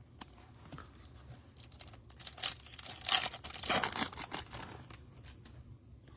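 Trading cards and pack wrapper being handled: a sharp click near the start, then a few seconds of rustling, sliding and crinkling in the middle.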